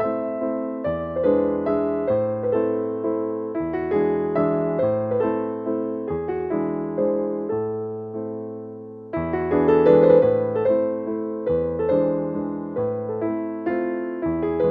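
Background piano music: a gentle melody of struck, decaying notes over a bass line that changes about once a second, swelling louder about nine seconds in.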